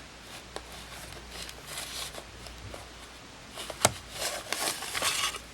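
Handling of a small plastic toy truck and its packaging: soft rustling with light clicks, a sharp click a little under four seconds in, and a denser burst of rustling near the end.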